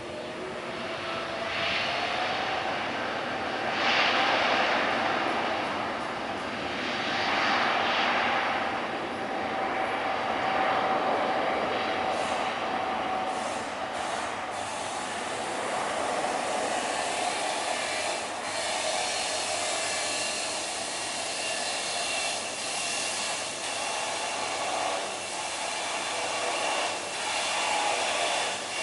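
Jet airliner engines running loud, swelling and easing several times, with a steady whine through the first half.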